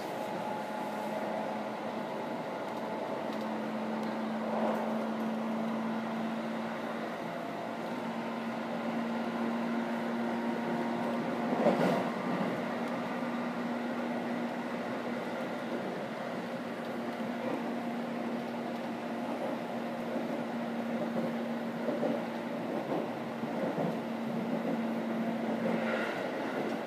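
Running noise heard inside a JR 313-series electric train: a steady rumble with a low hum that sets in a few seconds in and holds level. A single sharp knock comes about twelve seconds in.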